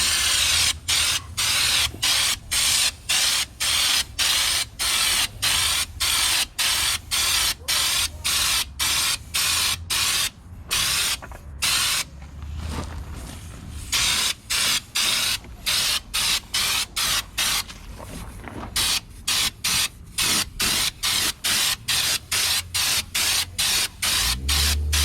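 Compressed-air spray gun hissing in short, rapid bursts, about two a second, pausing briefly twice along the way.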